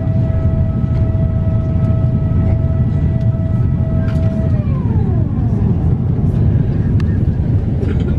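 Steady low cabin rumble of an Airbus A350-900 in flight. A held tone over it slides down in pitch a little past halfway and dies away.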